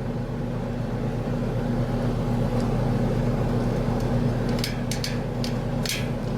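Steady low mechanical hum, with several short, sharp noises in the last second and a half.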